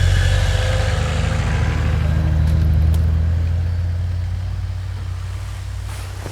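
Off-road 4x4 engine running with a deep, steady note that grows quieter over the last few seconds.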